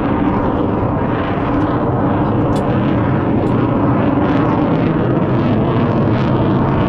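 A loud, steady engine drone with a strong low hum that holds even throughout.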